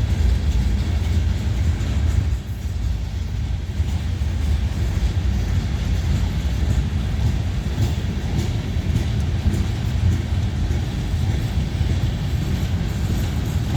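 CSX manifest freight train rolling past, its cars giving a steady low rumble on the rails.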